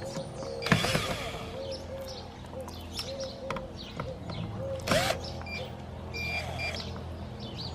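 Hand-work on an RV furnace: scattered clicks, knocks and a few short rattling scrapes as screws and metal parts are handled during disassembly, over a steady low hum.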